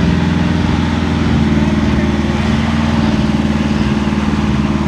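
Diesel pickup truck engine running steadily, with a slight change in pitch about a second and a half in.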